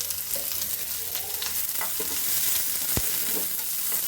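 Onion and garlic sizzling in hot oil with popped mustard seeds in a frying pan, being stirred, with faint crackles and one sharp click about three seconds in.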